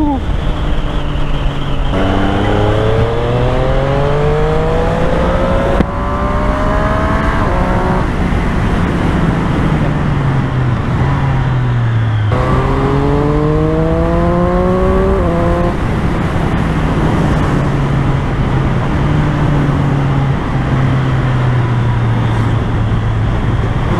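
Triumph Street Triple 765's three-cylinder engine accelerating through the gears, its pitch climbing with a shift about six seconds in. It then drops back, climbs again with further shifts from about twelve seconds in, and settles into a steady cruise, with wind rushing over the helmet-mounted mic throughout.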